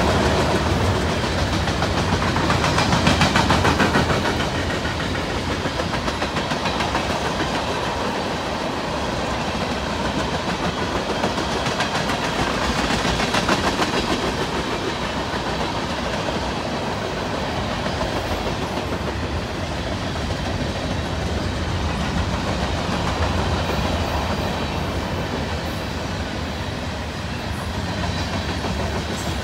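Freight cars of a long Union Pacific manifest train, tank cars then covered hoppers, rolling past. Steel wheels rumble steadily on the rail and clack rhythmically over the joints, a little louder about three seconds in and again around thirteen seconds.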